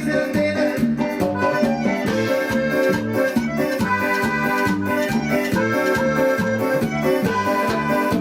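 A band playing live, led by an electronic keyboard with held, accordion-like notes over a steady pulsing bass beat.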